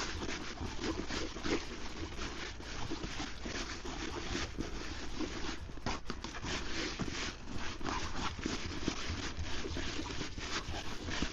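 Close, continuous rustling and scraping with dense irregular crackles: hands handling damp groundbait and fishing gear.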